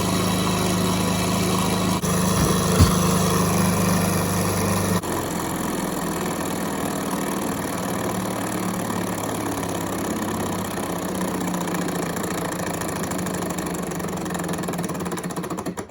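Model Stirling hot air engine running steadily, turning the small electric motor it uses as a dynamo. It makes a continuous mechanical whir with a low steady hum. A single click comes about three seconds in, and the hum drops in level about five seconds in.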